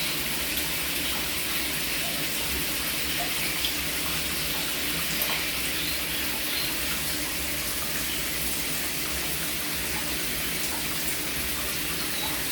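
Shower head spraying water steadily, the spray splashing onto a perch and the shower floor.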